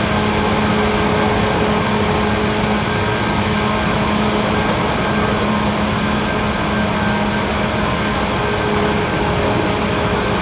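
Steady running noise of a 185 series electric multiple unit, heard from inside the passenger cabin: a continuous rumble with a steady hum.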